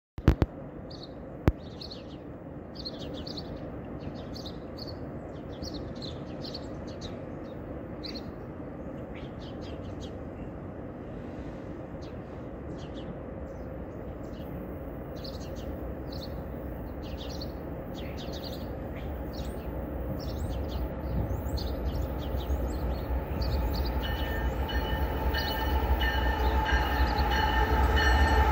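A freight train's lead GE diesel locomotives approach: a low rumble grows steadily louder through the last ten seconds or so, and a steady chord of higher tones joins it in the last few seconds. Two sharp clicks sound in the first two seconds, and small birds chirp over a steady background hiss during the first twenty seconds.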